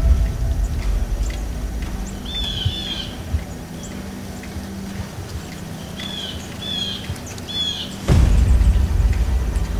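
A songbird calling over and over, short clear arching notes in twos and threes, over the quiet of an open field. About eight seconds in, a low rumble comes in suddenly.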